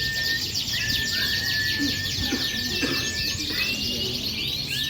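Many small-standard canaries singing at once: a dense, steady chorus of rapid chirps and trills, with long held whistled notes starting and stopping through it.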